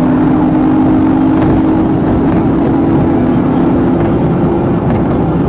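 A car driving hard at high speed: its engine runs with a steady, slowly rising pitch under loud road and wind noise.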